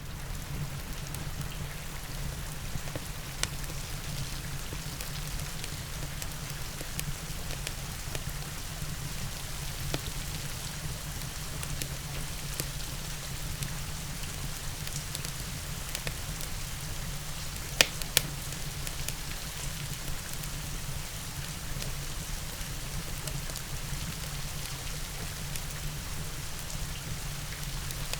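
Steady rain with a wood fire crackling, now and then a sharp single pop, and a louder double pop a little past the middle.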